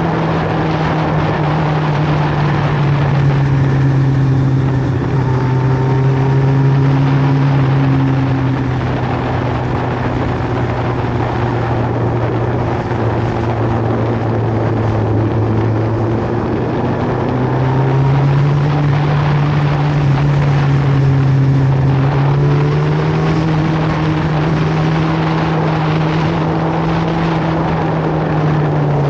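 Superbike engines running at steady, moderate revs, their note dropping slightly early on and rising again a little past the middle, over steady wind and road rush.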